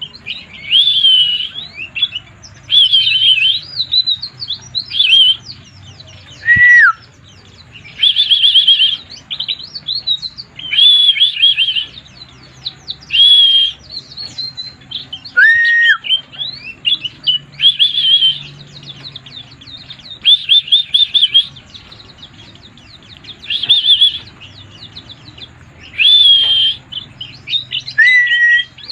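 A white-eye (pleci) singing in short bursts of fast, high warbling chirps about every two seconds, now and then with a single whistled note that slides down in pitch.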